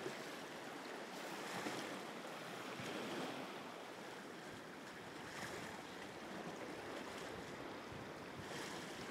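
Sea waves washing at the shoreline: a steady, faint wash of surf that swells and eases every few seconds.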